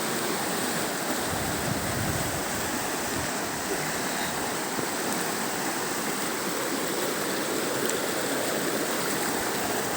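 Fast mountain river rushing and bubbling over rocks: a steady, unbroken roar of water.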